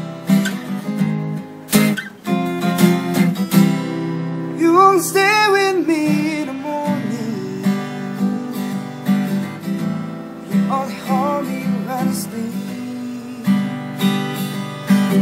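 Acoustic guitar strumming a song intro, joined twice by brief wordless vocal runs.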